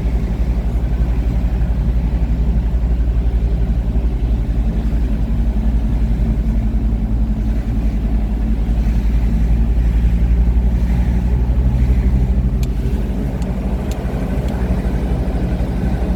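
Car driving at a steady speed, heard from inside the cabin: a continuous low rumble of engine and tyres on the road.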